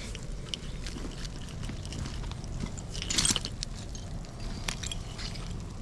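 Hand digging in dump soil: scattered small clicks and crunches, with one louder scrape about three seconds in.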